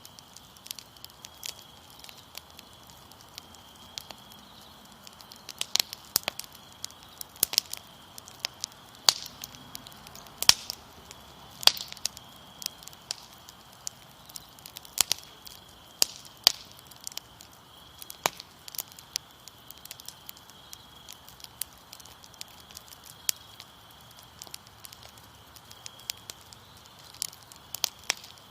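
Fire crackling with irregular sharp pops, over a steady high chirring of crickets.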